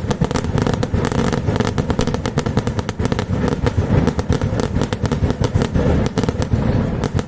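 Aerial fireworks going off in a dense barrage: a rapid, unbroken string of bangs and crackles over a low rumble.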